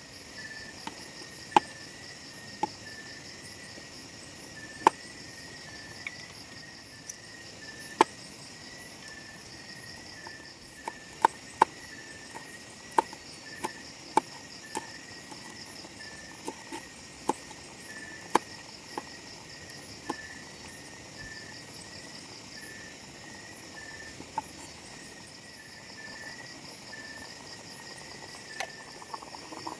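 Crickets and other insects chirping steadily, one of them repeating a short chirp about once a second. Scattered sharp clicks and knocks, the loudest sounds, come at irregular moments, a few close together about eleven seconds in.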